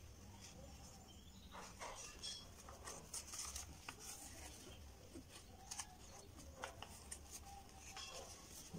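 Faint rustling and light ticks of paper being handled and folded, irregular and scattered, over a low steady hum.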